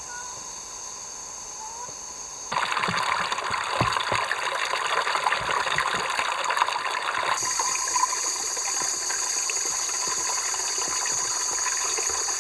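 Rushing, splashing noise like running or pouring water. It starts suddenly about two seconds in and changes abruptly about seven seconds in.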